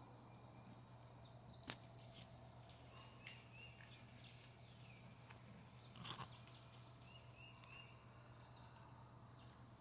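Near silence with faint bird chirps in short groups, a sharp click about two seconds in and a brief knock around six seconds.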